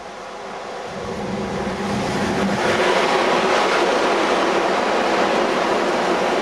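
ICE high-speed train approaching and passing close by. Its running noise grows louder over the first two and a half seconds, then holds as a steady, loud rolling sound of the coaches going past.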